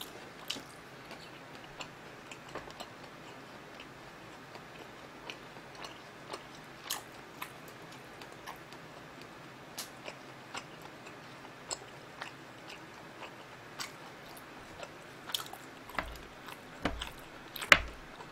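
Close-miked chewing of grilled marinated galbi rib meat, with faint wet mouth clicks scattered throughout. Near the end come a few louder clicks and knocks as chopsticks pick food off the platter.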